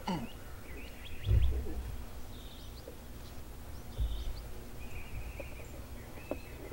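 Small birds chirping in short scattered calls, with two dull low thumps, about a second and a half in and again about four seconds in.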